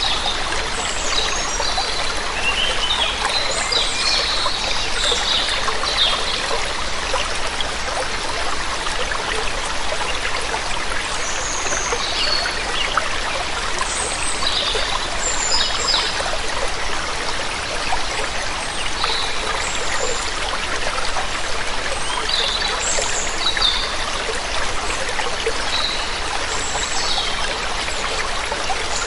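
Steady rush of a waterfall, with birds chirping now and then above it in short, high calls.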